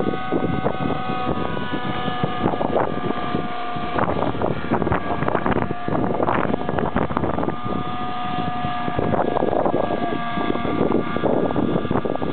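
Radio-controlled helicopter hovering, its engine and rotors giving a steady whine, with strong gusty wind buffeting the microphone.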